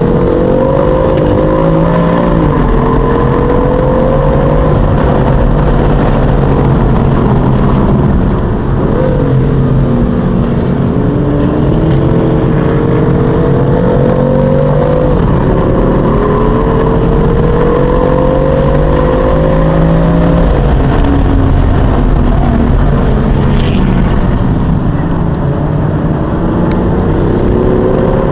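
BMW M4's twin-turbo straight-six heard from inside the cabin, driven hard on track: the engine note climbs with revs and drops sharply at gear changes or lifts several times, with a brief jump in pitch about nine seconds in.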